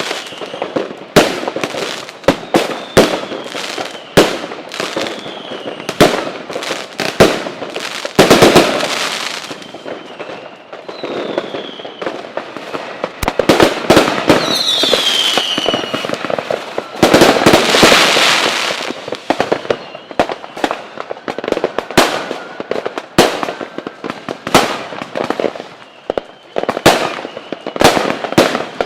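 Fireworks display: a run of sharp bangs, with dense crackling stretches about eight seconds in and again around seventeen to nineteen seconds, and a few short falling whistles.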